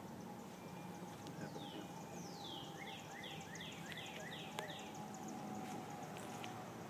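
Honeybees humming steadily around an open hive. From about two seconds in, a bird sings a quick run of about seven falling whistled notes.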